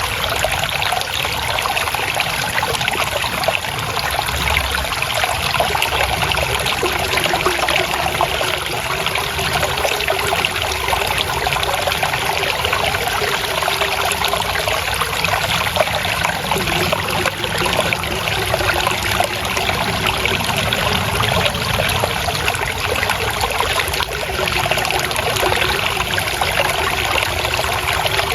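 Water trickling and flowing steadily over rocks, a continuous splashing babble of a small stream.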